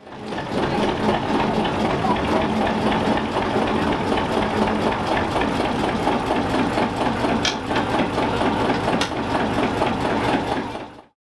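Ruston & Hornsby diesel locomotive engine running steadily with a fast, even beat. Two brief sharp clicks come in the second half.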